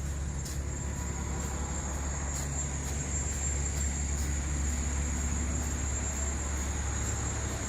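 Steady low rumble of city street traffic, with faint regular ticks about twice a second.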